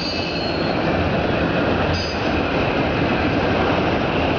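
Empty autorack freight cars rolling past with a steady rumble and rattle of wheels on rail. A thin, high wheel squeal comes at the start and again briefly about two seconds in.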